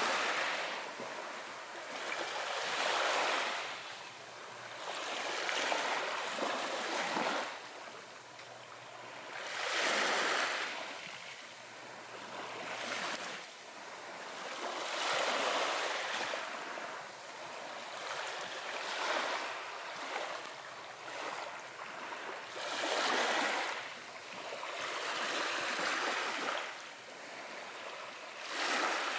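Ocean waves washing ashore, each surge rising and fading away every few seconds.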